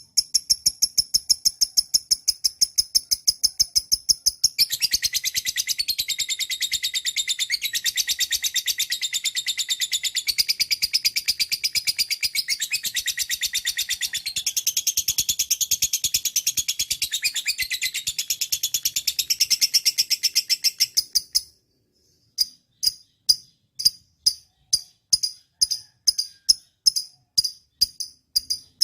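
Lovebird calling: high, evenly repeated chirps, then about five seconds in a long, unbroken high-pitched chattering trill that runs for some sixteen seconds and cuts off suddenly. After a short pause the evenly spaced chirps resume.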